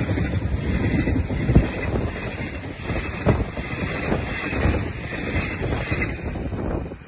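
Passenger coaches of a fast train passing close by: a rushing rumble with sharp wheel clicks over rail joints, and wind on the microphone. The noise fades near the end as the last coach goes by.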